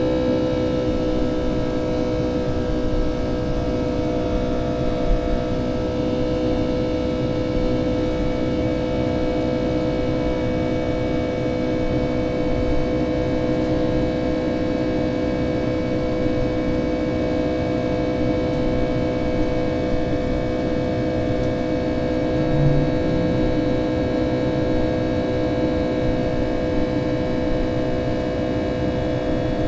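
Boeing 757-200's jet engines heard from inside the passenger cabin: a steady drone with several held tones over a low rumble, unchanging throughout.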